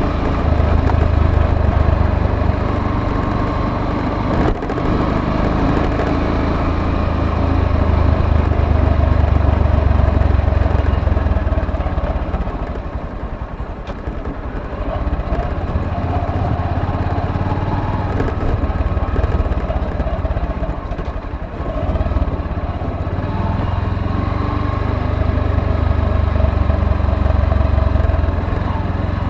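Motorcycle engine running as the bike is ridden, with road noise; it eases off for a few seconds in the middle and picks up again.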